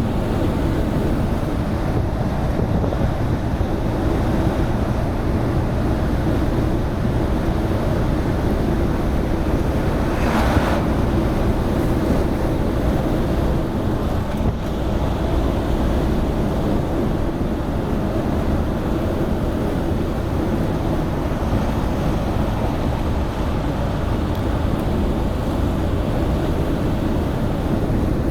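Truck on the move: a steady low rumble of engine and road noise with wind buffeting the microphone, and a brief hiss about ten seconds in.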